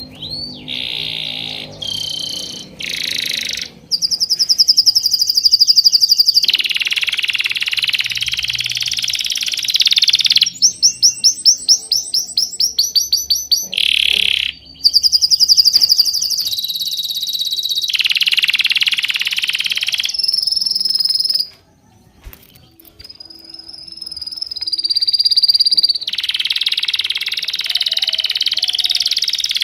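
Songbirds chirping and singing in long phrases, some as rapid trills of repeated high notes, with a brief lull about two-thirds of the way through.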